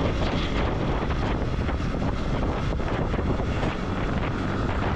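Steady wind rushing over the microphone of a motorcycle rider at speed, with engine and road noise droning underneath.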